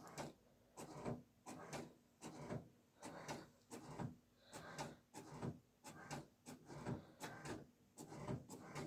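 A printer working, making a faint run of short, even mechanical strokes at about two or three a second as it prints.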